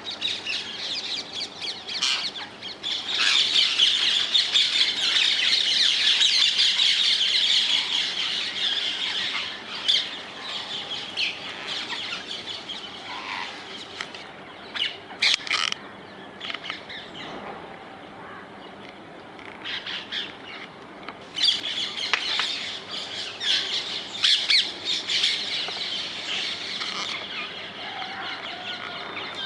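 A flock of rose-ringed parakeets (Indian ringnecks) calling, many short calls overlapping. The calling is dense for several seconds, thins out to scattered calls in the middle, then builds up again.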